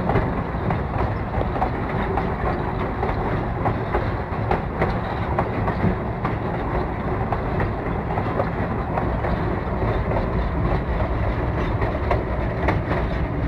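Narrow-gauge train heard from on board while rolling along the track: a steady rumble with scattered light clicks from the wheels and cars.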